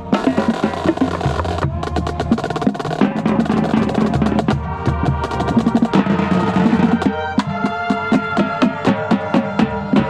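Marching band playing, with a set of tenor drums (quads) close by playing rapid strokes over held chords from the band; in the second half the drum strokes fall into an even, steady run.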